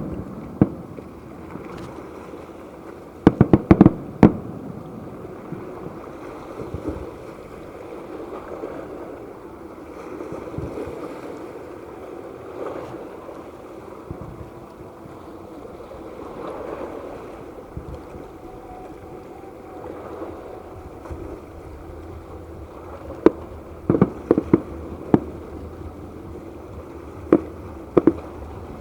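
Fireworks bursting in sharp bangs: a quick cluster about three to four seconds in, a long gap, then a run of scattered bangs near the end, over a steady background din.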